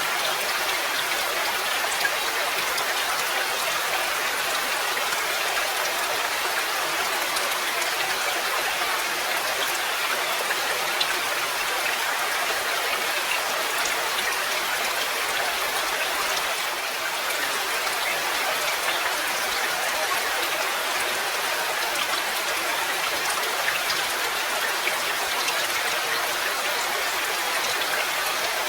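Steady rain, an even hiss with scattered sharp ticks of individual drops.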